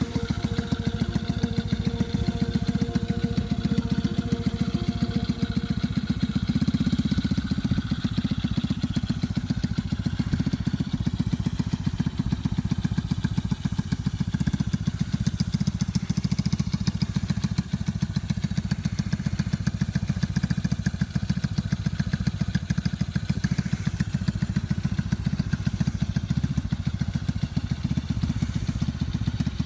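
Small Chinese 125cc single-cylinder four-stroke kart engine running steadily, a rapid even putter.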